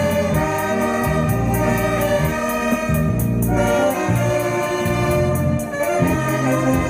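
Live ensemble music from an amateur band: sustained horn-like melody notes over a bass line and a steady beat.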